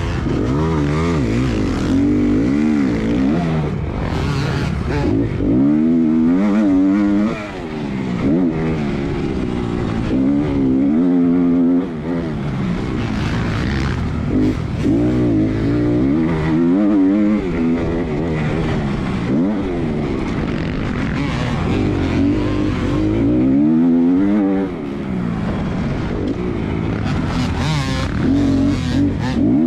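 Motocross dirt bike engine revving hard and easing off over and over as it accelerates and shifts around the track, the pitch climbing and falling every second or two, with short throttle-offs about seven, twelve and twenty-four seconds in.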